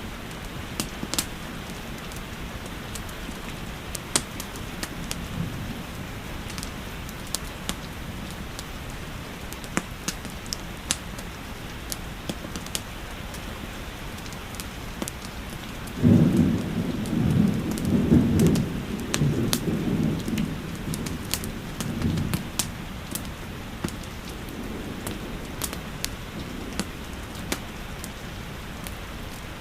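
Steady rainfall with the sharp pops and crackles of a wood fire. About halfway through, a rumble of thunder rolls for several seconds and is the loudest sound.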